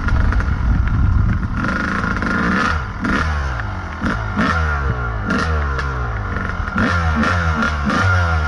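Kawasaki KDX220 two-stroke dirt bike engine revving up and falling back over and over, in quick blips through the second half, with scattered knocks and clatter.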